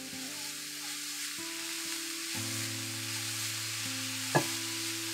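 Grated cabbage and besan paratha stuffing sizzling in a cast iron skillet as it is stirred with a silicone spatula, with one sharp knock about four seconds in. Soft background music with held notes plays underneath.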